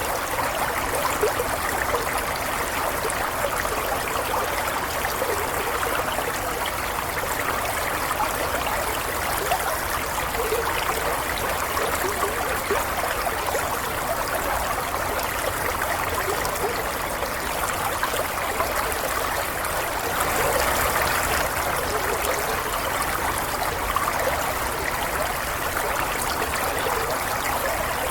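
Stream water running and trickling steadily, with small splashes and gurgles.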